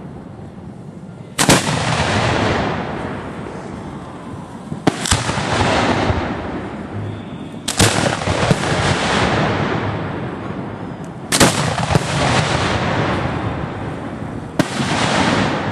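Aerial firework shells fired one at a time from ground mortar racks: five sharp bangs about three and a half seconds apart, each followed by a noisy tail that fades over two to three seconds.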